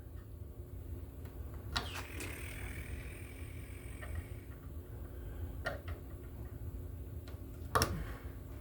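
Wire strippers stripping the insulation off a 12-gauge copper wire: a few sharp clicks, the loudest near the end, and a short faint squeal as the insulation slides off, over a steady low hum.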